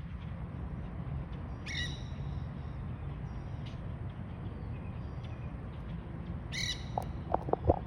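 Quaker parrots (monk parakeets) giving two harsh squawks about five seconds apart, with fainter chirps in between. A steady low rumble runs underneath, and a few sharp knocks come near the end.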